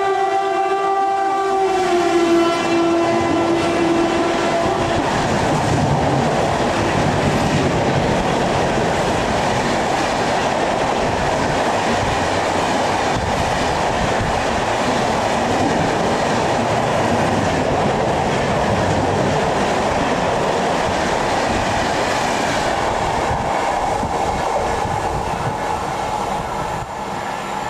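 Train horn held for about four seconds, then an express train passing at speed: a long, loud rush of wheel and rail noise that eases off near the end.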